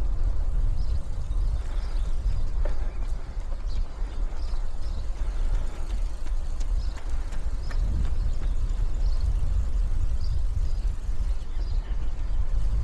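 Wind buffeting the microphone of a moving bicycle, a steady fluttering rumble, with faint high chirps repeating about once a second.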